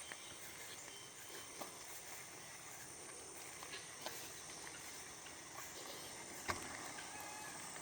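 Faint, steady, high-pitched chorus of insects such as crickets, with a single sharp click about six and a half seconds in.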